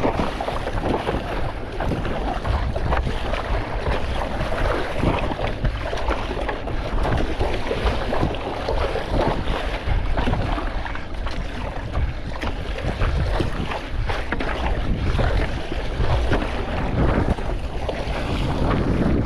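Strong wind buffeting the microphone, with choppy sea water splashing and sloshing.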